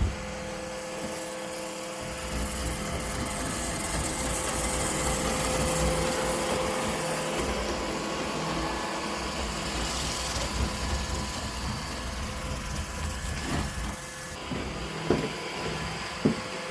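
iRobot Roomba robot vacuum running: a steady motor hum and whir with suction noise that swells for several seconds in the middle, then eases. A few short knocks come near the end.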